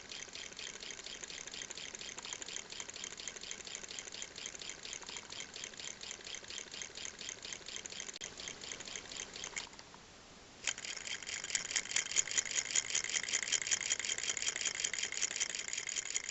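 Small solenoid engine spinning a 2.5-inch hard-disk platter, its solenoid and microswitch giving a rapid, steady train of clicks as the rod is pushed out on each switch closure. The clicking stops for about a second partway through, then resumes louder.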